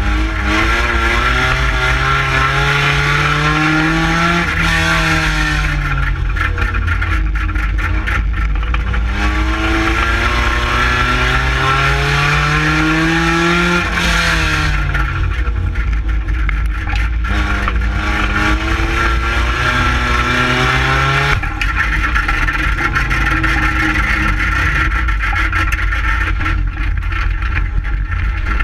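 A 2-litre stock car's engine heard from inside its stripped-out cabin, revving up over a couple of seconds and dropping back, three times, then running more steadily, over a steady rushing noise.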